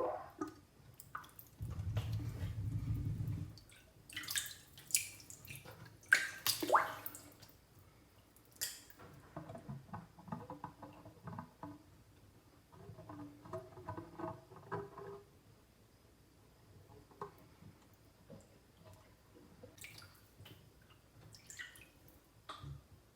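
Bath water splashing and dripping, with a low buzzing fart about two seconds in and bubbles gurgling a few times later on, as gas is let out under the water to be caught in a plastic bottle.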